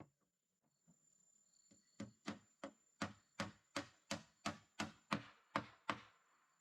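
Chopping with a blade: about a dozen sharp, evenly spaced strokes at roughly three a second, starting about two seconds in and stopping near the end.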